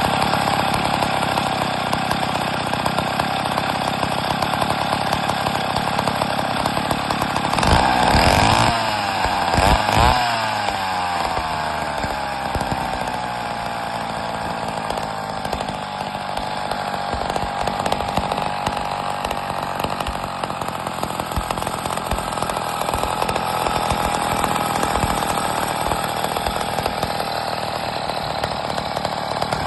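Wright C 50 chainsaw engine running steadily. The throttle is blipped twice, about 8 and 10 seconds in, each a quick rise and fall in engine pitch, before it settles back to a steady, slightly wavering run.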